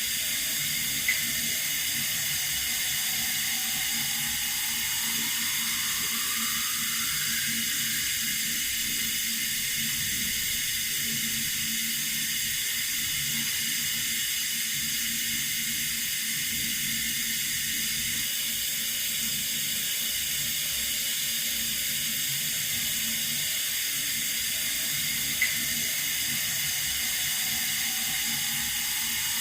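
Running water from a tap, a steady hissing stream, with a faint click about a second in and another near the end.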